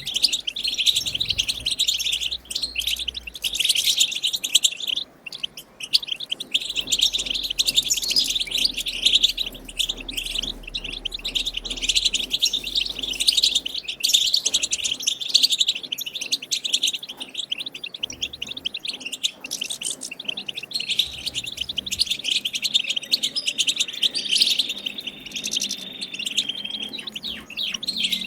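A wild European goldfinch singing its twittering 'batbata' song: a dense, unbroken stream of fast high chirps and trills, with a briefly held high note near the end.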